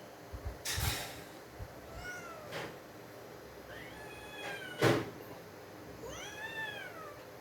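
Domestic cat meowing three times, each call rising and then falling in pitch. Several soft knocks come near the start, and one sharp, loud knock comes just before the second meow ends.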